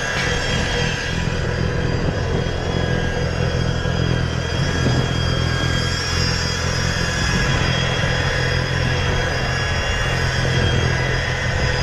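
Engine of a snow-clearing machine running at a steady, unchanging speed.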